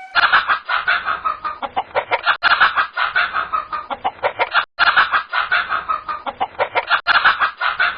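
Chickens clucking rapidly and continuously in a dense run of short calls, broken by a few abrupt cuts.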